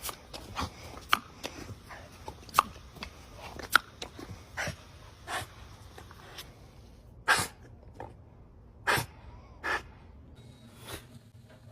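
A dog making a string of short, sharp sounds at irregular intervals, about one every half second to a second, with the loudest ones coming between about seven and ten seconds in.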